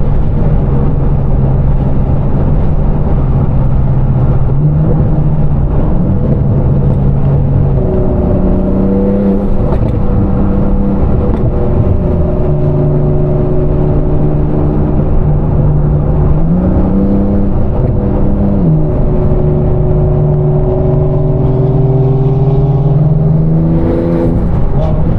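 Sports car engine droning at a steady cruising pitch, heard from inside a car, its note stepping up briefly a few times and settling back down.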